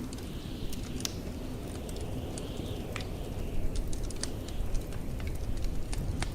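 Wood fire crackling in a fireplace, with irregular sharp pops and snaps, over the steady low rumble of blizzard wind.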